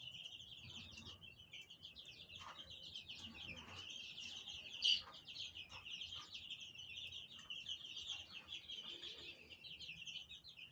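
A brood of newly hatched Brahma chicks peeping continuously, many rapid overlapping high peeps, with one louder peep about five seconds in.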